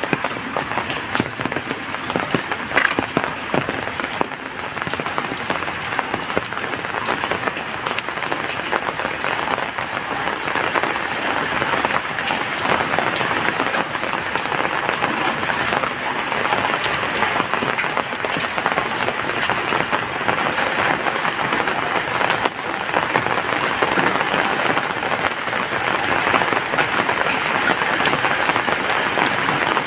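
Steady heavy rain falling, a dense patter of drops with many small ticks, holding an even level throughout.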